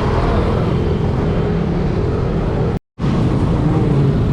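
Steady road-traffic noise mixed with wind on the microphone, heard from a bicycle riding in city traffic. The sound cuts out completely for a split second about three seconds in.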